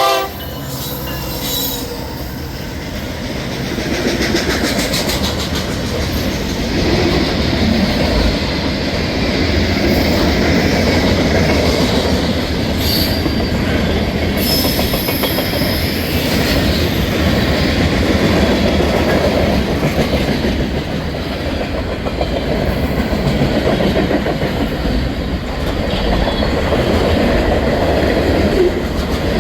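Norfolk Southern mixed freight train rolling past on a curve: a steady rumble of the cars with wheel clatter, and brief high wheel squeals around the middle.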